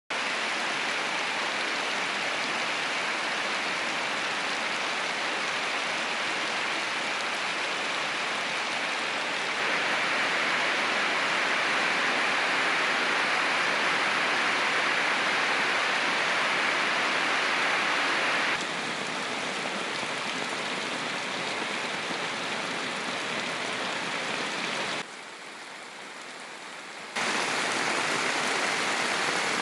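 Heavy rain pouring onto a paved street and standing water, a steady dense hiss. It grows louder about a third of the way in, eases a little past halfway, and drops away for about two seconds near the end before coming back.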